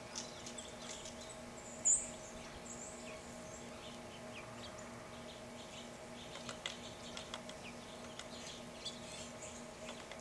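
Wild birds chirping in short, high chips, one louder about two seconds in and more frequent in the second half, over a faint steady hum.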